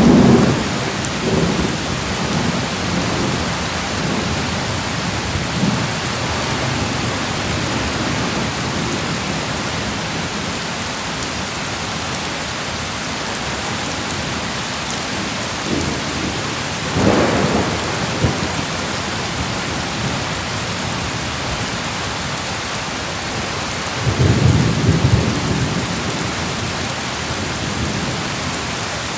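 Steady rain with thunder rumbling over it: a rumble dying away in the first second, another a little past halfway, and a low rolling rumble lasting a couple of seconds near the end.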